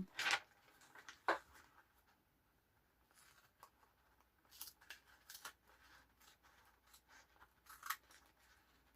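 Faint, scattered crackles and ticks of washi tape and paper being handled: tape peeled back and pressed onto a journal page. Two sharper crackles come in the first second and a half, then softer ones scattered through the rest.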